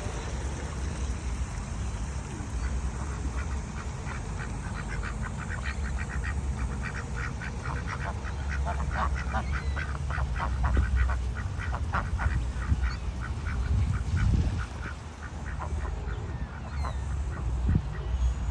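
Ducks quacking in rapid runs of short calls, several a second, thinning out over the last few seconds, over a steady low rumble.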